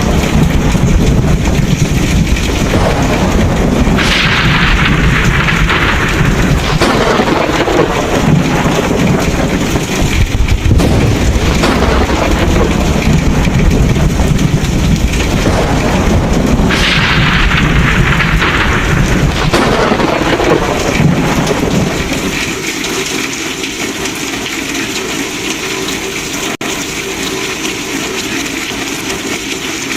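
Thunderstorm: long rolling thunder over steady heavy rain, with two louder surges along the way. About two thirds of the way through, the low rumble fades away, leaving the rain hiss.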